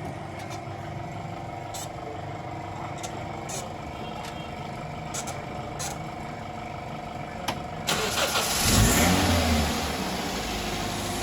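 Toyota Corolla GLI petrol engine running steadily, then about eight seconds in it suddenly gets louder with a brief swing in pitch, as it is revved or restarted, before settling to a steady run again.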